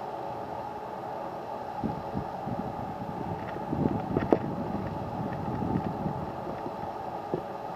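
Low, muffled rumbling gusts of wind buffeting a camera microphone shielded with high-density foam and artificial fur, over a steady outdoor drone of distant traffic. The gusts swell from about two seconds in to past the middle, with one sharp click about four seconds in.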